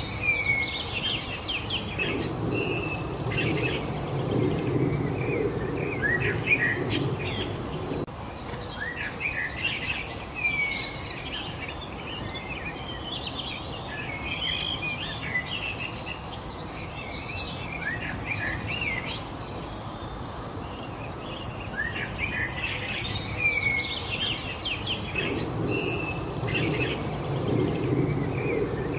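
A chorus of many small songbirds chirping and trilling together in quick, overlapping calls. A low background rush swells for a few seconds early on and again near the end.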